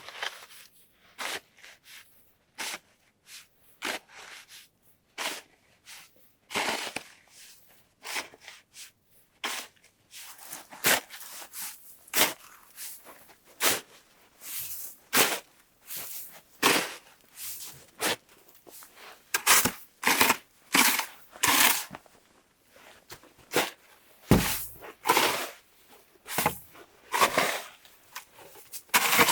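Footsteps crunching through deep snow, a steady walking rhythm of short crunches, a little quicker in the second half.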